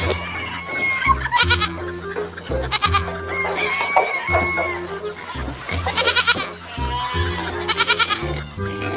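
Goats bleating about four times, each call quavering, over background music with a steady bass line.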